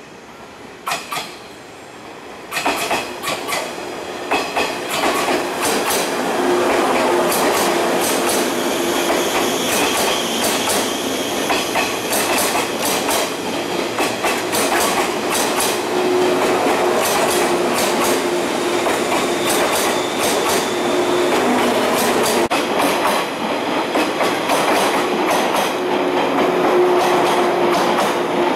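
A 185-series electric train rolls slowly into the station over crossovers. Its wheels clack over rail joints and points, and it gets much louder about two and a half seconds in as the cars come past. A thin squealing tone comes and goes.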